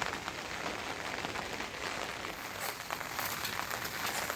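Steady rain falling, with many small, sharp drop impacts.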